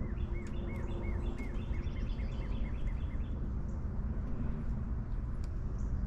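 A bird calling a quick series of short chirps, each rising and falling, a few a second, that stops about halfway through, over a steady low rumble of outdoor background noise.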